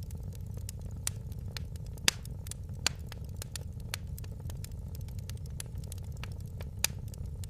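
Wood fire crackling in a fireplace: irregular sharp pops and snaps over a steady low rumble of the flames, with louder pops about two seconds in, just before three seconds, and near the end.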